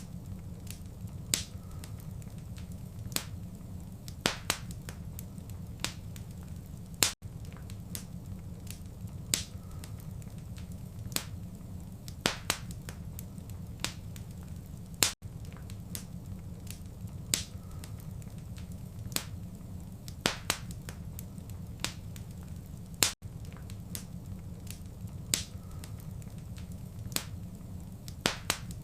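Wood fire burning in a fireplace: sharp, irregular crackles and pops, about one or two a second, over a steady low rumble, with a very brief dropout about every eight seconds.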